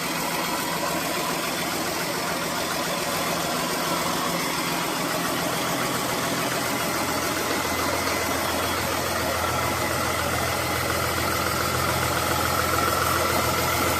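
Cummins QSB 6.7 inline-six turbodiesel engine running steadily on a test run after being rebuilt. A deeper hum comes in about halfway, and the sound grows slightly louder toward the end.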